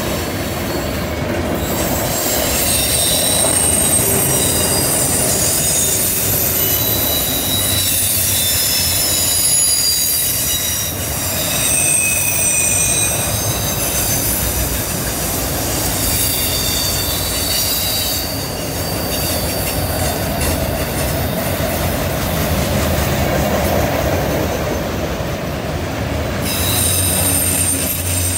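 Freight train cars rolling past on a curve: a steady rumble of steel wheels on the rails, with high, thin wheel squeals coming and going. The squeal is flange squeal from the wheels working through the curve.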